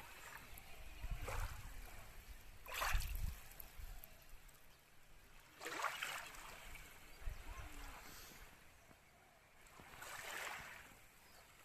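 Small sea waves washing onto the shore, with about four hissing surges a few seconds apart.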